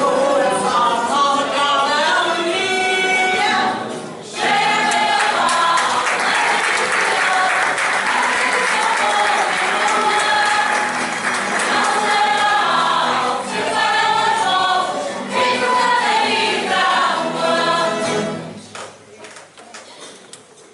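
A group of voices singing together in chorus; the song ends near the end.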